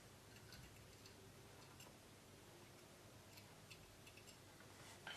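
Near silence with a few faint, irregular clicks, a little louder near the end: small plastic model-kit parts being handled on a table.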